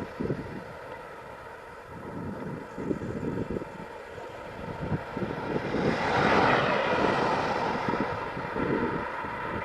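HPI Wheelie King RC monster truck running on the street on its Traxxas 12-turn brushed electric motor: a steady motor whine over tyre and road rumble, loudest a little past halfway through.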